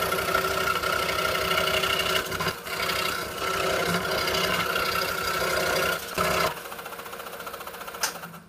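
A 26" RBI Hawk scroll saw running with a 5-0 skip-tooth blade, steadily cutting Baltic birch plywood. The sound drops off sharply about six and a half seconds in, and a single click comes near the end.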